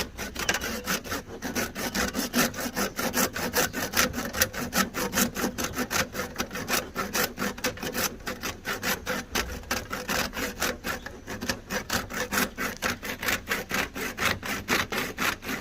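A hose tail fitting being sawn through by hand, in rapid, even back-and-forth strokes, about four a second.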